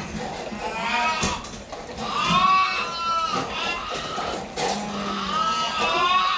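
Young dairy calves bawling, several overlapping drawn-out calls one after another, loudest about two seconds in: calves calling to be fed during milk feeding.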